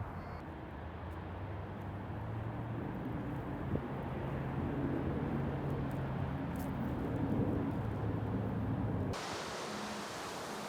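A low engine hum, steady and pitched, that slowly builds and eases over several seconds. It breaks off abruptly about nine seconds in, giving way to a steady outdoor hiss.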